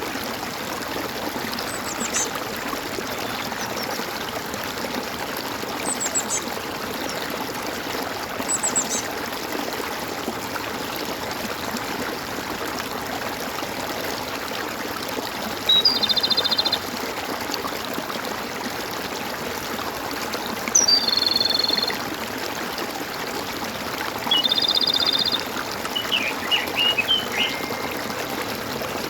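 Steady trickling, gurgling stream with birds calling over it: a few short high chirps early, then three louder buzzy calls of about a second each, spaced a few seconds apart, and a quick run of chirps near the end.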